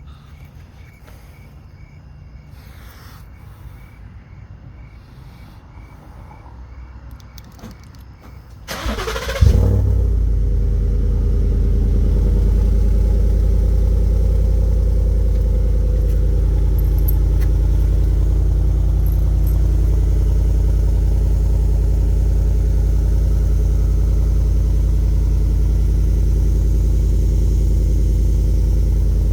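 Ford F-150's engine started through a Flowmaster FX Extreme exhaust, on its first start with the system: after a quiet lead-in, the starter cranks briefly about nine seconds in and the engine catches with a loud flare, then settles into a steady idle.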